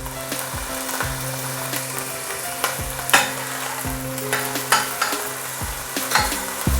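Chopped red onion sizzling in hot oil in a pan while being stirred, with scattered sharp clicks and scrapes of the utensil against the pan, the loudest about three seconds in.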